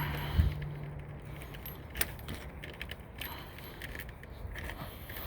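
Spline roller pressing rubber spline into a screen frame's channel over heavy-duty pet screening: scattered clicks and rattles of the tool and frame, with a knock about half a second in and a sharp click about two seconds in.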